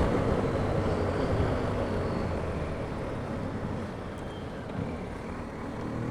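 BMW R1250GS boxer-twin engine and wind noise heard inside the rider's helmet. The steady hum eases off over the first few seconds and builds again near the end.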